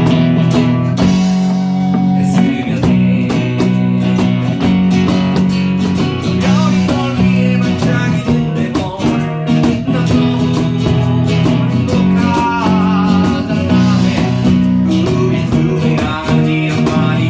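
A band playing a song with guitar, a steady bass line and drums with regular cymbal ticks. A singer comes in with wavering held notes in the second half.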